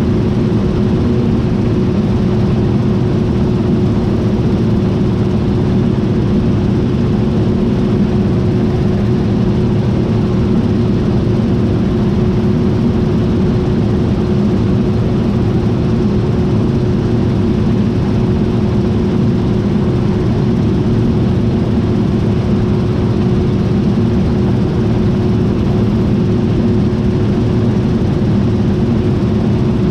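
John Deere T660i combine harvester running steadily: a constant machine drone with one steady tone held throughout.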